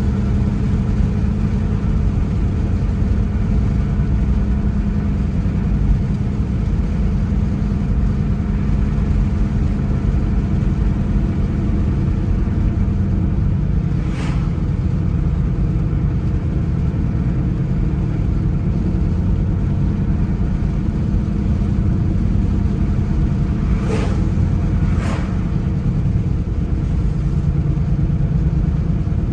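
Car driving on the road: steady engine and tyre drone. Three brief sharp clicks sound, one about halfway and two close together near the end.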